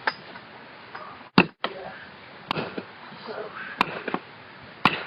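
Faint, indistinct voices over low background noise, broken by four sharp clicks, one of them followed by a split-second dropout to silence.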